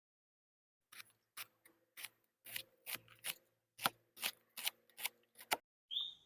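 Food being cut for a stir fry: about a dozen crisp cutting strokes, two or three a second, with a short high clink near the end.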